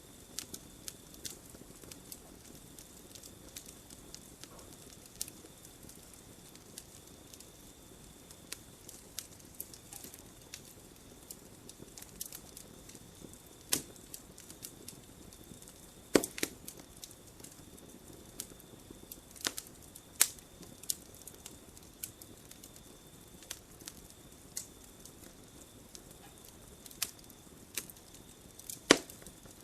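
Wood campfire crackling, with irregular sharp pops and a few louder snaps about halfway through and near the end. A faint steady high tone runs underneath.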